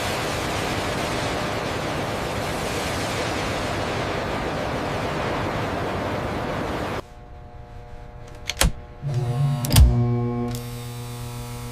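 A steady rushing noise for about seven seconds, cut off suddenly. Then two sharp knocks and a low electronic drone with overtones that holds on as background music.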